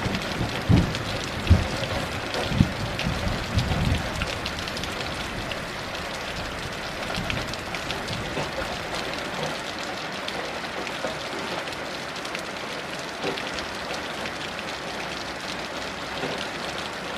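Heavy rain falling in a steady hiss of many drops. A low rumble of thunder dies away over the first few seconds.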